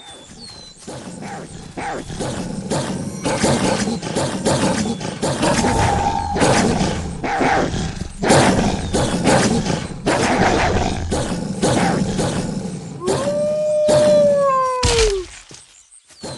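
Wolves snarling and growling in a loud, dense scuffle. Near the end comes one drawn-out call of about two seconds that falls in pitch, ended by a heavy thump.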